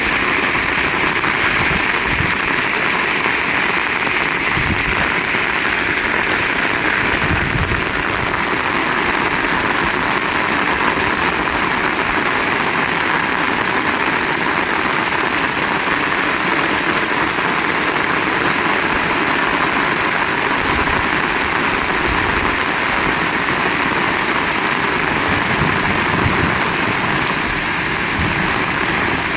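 Heavy rain pouring steadily in strong wind, a constant loud hiss.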